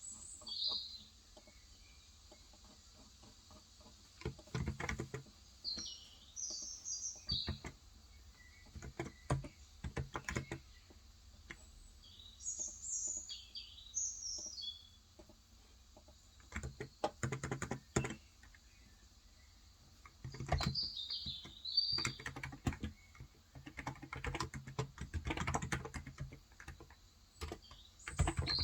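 Typing on a Cox Endeavor electrocapacitive (topre-style) 35 g tenkeyless keyboard, in runs of keystrokes a second or several seconds long with short pauses between. Birds chirp high in the background several times.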